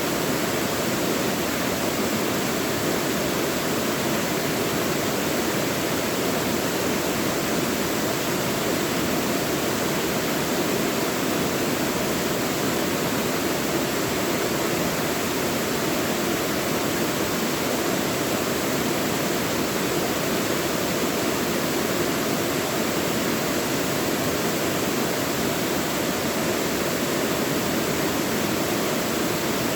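Mountain valley stream flowing, a steady, even rush of water with no breaks or changes.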